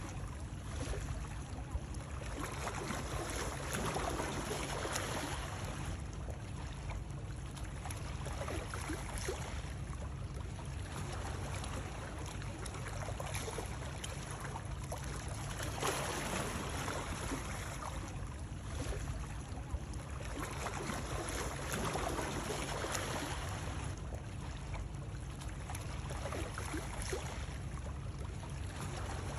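Water running and lapping continuously, swelling and easing every few seconds, used as soothing white noise.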